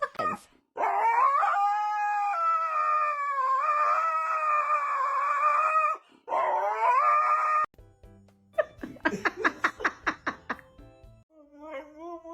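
Dog howling: one long drawn-out, wavering howl of about five seconds, then a shorter second howl that cuts off suddenly. A quick run of short sounds follows a little later.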